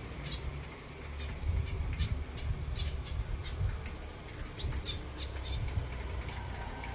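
Zebra finches and silverbills calling with short, high chirps, several a second at irregular intervals, over a steady low rumble.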